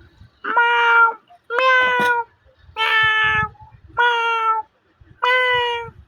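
Domestic cat meowing insistently: five long meows about a second apart, begging to be given chicken fillet.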